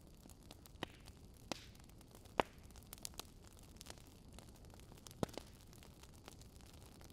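Fire crackling: a faint steady hiss broken by irregular sharp pops, about half a dozen, the loudest around two and a half seconds in.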